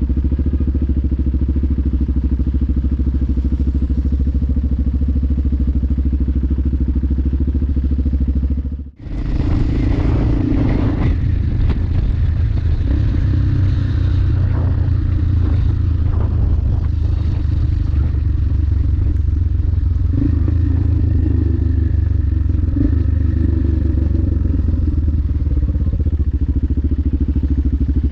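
Yamaha XT600E motorcycle's single-cylinder four-stroke engine running steadily. About nine seconds in, the sound drops out for a moment, then the engine continues with more clattering and uneven noise.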